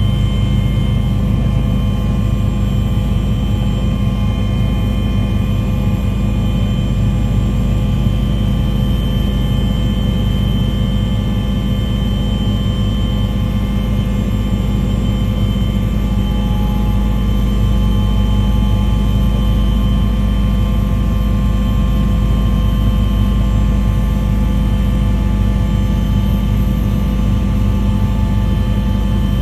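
Steady, loud drone of an aircraft engine, low and unchanging, with a few steady whining tones above it.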